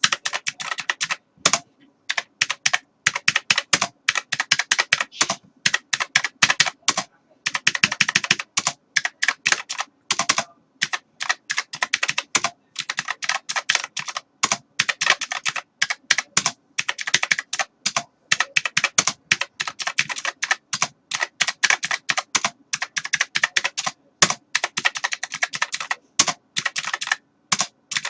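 Computer keyboard being typed on in fast runs of keystrokes, broken by brief pauses a few times.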